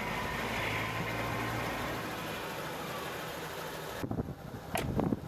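VW R32's 3.2-litre VR6 idling steadily through a 3-inch APR RSC catback exhaust, with a low, even hum. About four seconds in, the sound turns into an uneven, fluttering low rumble.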